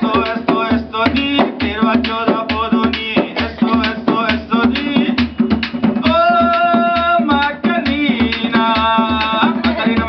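Live Indian folk music: a hand drum keeps a quick, steady beat over a constant drone, with long held melody notes coming in about six seconds in and again near nine seconds.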